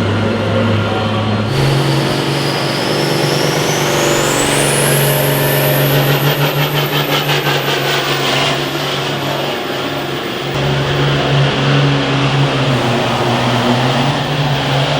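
A pulling vehicle's engine running hard under load. A high whine climbs steeply in pitch over a few seconds, then the sound pulses rapidly for a couple of seconds before settling back to a steady run.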